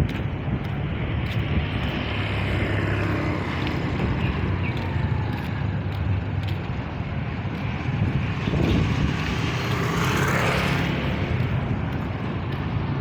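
Heavy truck engine running steadily with traffic noise. Another vehicle passes close, louder with a gliding pitch, about eight to eleven seconds in.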